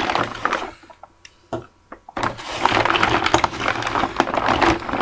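Crinkling and rustling of plastic packaging with small clicks and knocks as bottles of e-liquid are pulled out of a mail-order bag; it stops for about a second shortly after the start, then carries on.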